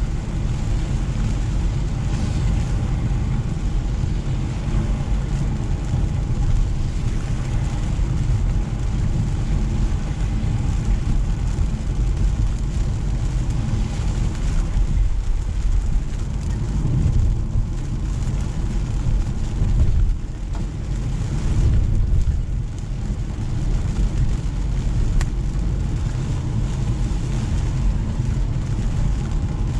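A car driving on a wet road in steady rain: a steady low rumble of tyres and engine under an even hiss of rain on the car and tyre spray.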